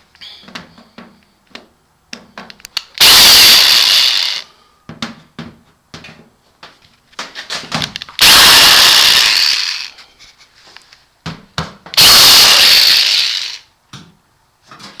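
Black & Decker power drill backing sheet-metal screws out of a boiler panel. It runs three times, each for about a second and a half, with small clicks and knocks between.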